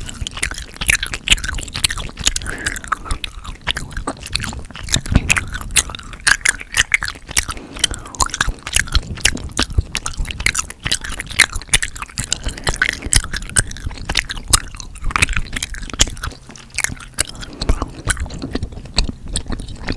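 Chewing gum close to the microphone: a dense, continuous run of sharp mouth clicks and smacks.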